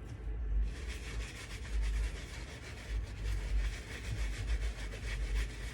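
Bristle brush scrubbing the wet suede of a sneaker in quick, repeated rubbing strokes.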